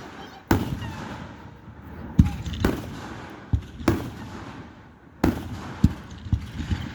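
Fireworks display shells bursting: about eight booms at irregular intervals, some in quick pairs, each trailing off in a brief rumble.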